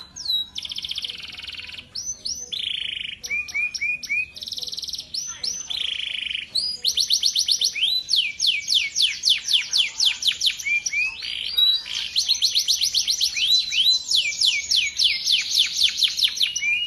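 Male domestic canary singing a long, varied song: buzzy rolls and short trills at first, then from about seven seconds in, long fast runs of repeated sweeping notes.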